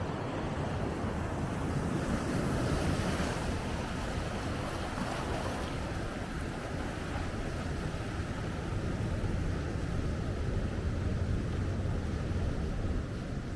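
Big ocean waves breaking and washing in, a continuous rushing surf that swells brighter for a few seconds near the start, with wind buffeting the microphone.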